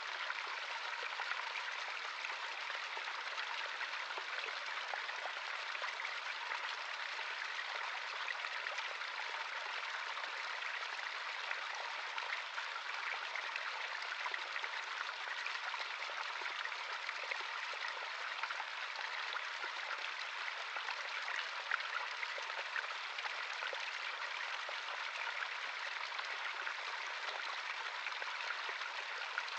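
A shallow stream running steadily, a continuous rush of water with small splashes and trickles over the rocks.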